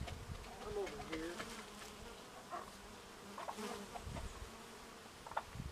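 Faint, steady insect buzzing with an even hum.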